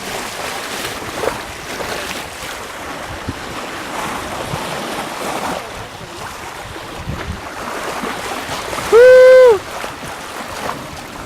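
Wind and sea water rushing past a sailing yacht under way, with wind buffeting the microphone. About nine seconds in comes one loud, short hoot that rises and falls in pitch.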